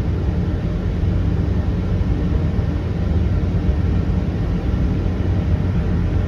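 Steady low rumble of a diesel train running.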